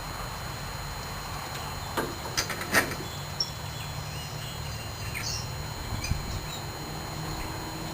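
A few sharp metallic clicks about two to three seconds in, from mower parts and tools being handled, with short bird chirps over a steady low background hum.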